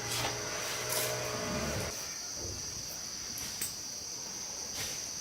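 Insects chirring in a steady, high-pitched drone, with a low hum during the first two seconds and a few faint clicks.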